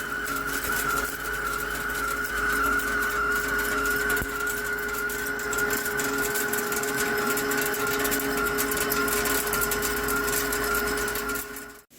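Hankook PROTEC-9NC heavy CNC lathe turning a forged steel shaft with a carbide insert: a steady machine tone under a wavering cutting whistle, with a crackle of chips. It breaks off abruptly near the end.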